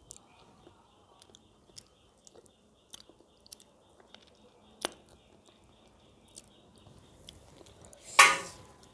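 Close-miked chewing and eating: soft mouth clicks and smacks, a sharp click about five seconds in, and a louder, longer burst near the end.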